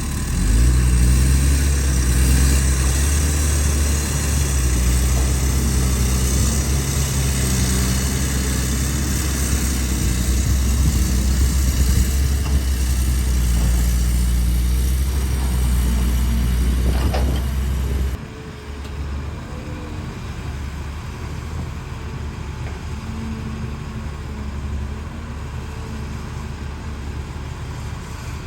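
Excavator engine running steadily under load. It drops abruptly to a lower, quieter note about two-thirds of the way through.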